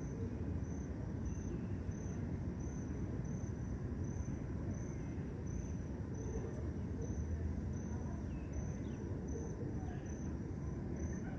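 A cricket chirping steadily, about two short high chirps a second, over a louder, even low rumble of background noise. A few faint bird calls come and go.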